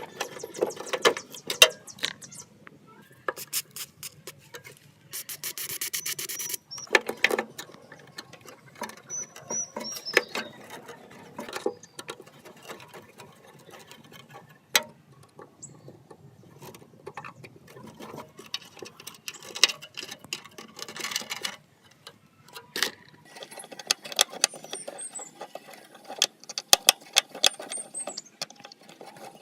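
Metal parts of an old table fan being handled and worked on: irregular clicks, taps and scrapes, with a stretch of dense rasping about five seconds in and a few short high squeaks.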